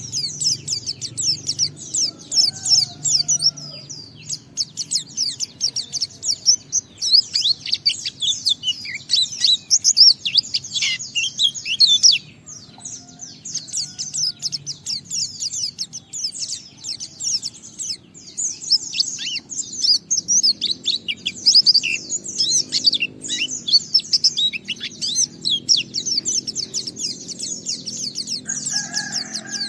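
White-eye (pleci) singing a fast, unbroken stream of high twittering notes, the long continuous song that keepers call ngalas, with brief lulls about twelve and eighteen seconds in.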